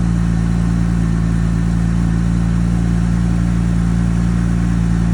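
2002 Porsche 911 Turbo's twin-turbocharged 3.6-litre flat-six idling steadily, still warming up after a cold start.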